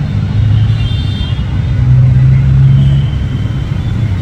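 A motor running steadily with a loud low hum, a little louder about two to three seconds in.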